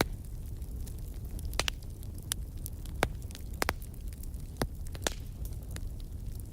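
Wood campfire burning: irregular sharp pops and snaps from the burning wood over a steady low rumble.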